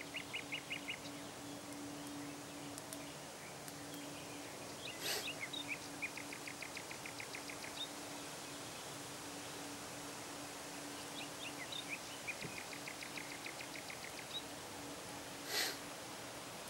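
Songbirds singing outdoors: several trills of quick repeated notes, over a faint steady hum. Two short, sharp noisy sounds, one about five seconds in and one near the end, are the loudest moments.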